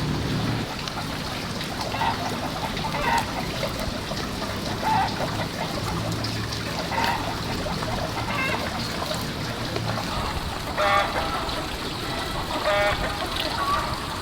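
Ducks quacking in short calls every second or two, over a steady trickle of water.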